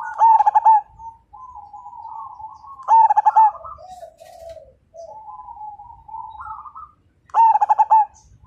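Zebra doves (perkutut) cooing. Three loud, short rolling coos come about three seconds apart, with softer cooing running between them.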